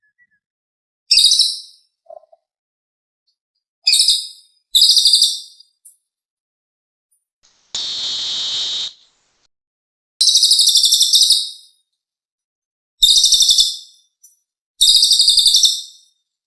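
Cililin bird song used as a trapping lure: six bursts of rapid, high-pitched trills, each about a second long, with a harsh hissing call of about a second near the middle.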